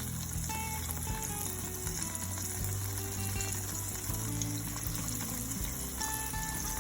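Coated chicken pieces deep-frying in hot oil, a steady sizzle, under background music with held notes and a bass line.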